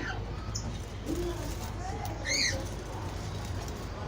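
Birds calling: one sharp chirp about halfway through, with low, soft calls underneath.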